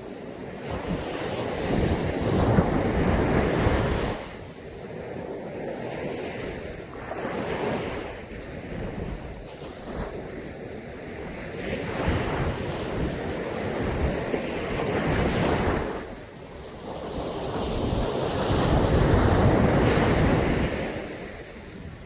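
Caribbean Sea waves breaking on the beach in repeated surges, each swelling and then washing back. The biggest surges come about two seconds in and near the end, with smaller ones between.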